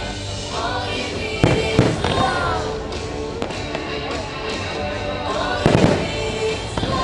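Fireworks bursting with sharp bangs, a pair about a second and a half in and another pair near six seconds, over the show's music.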